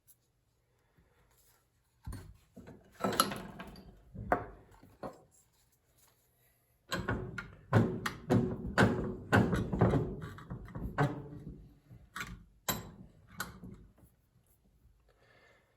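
A string of sharp knocks and clunks from parts and tools being handled and tapped during hand work on a dishwasher circulation pump: a short group, a pause, then a longer, busier run of hits.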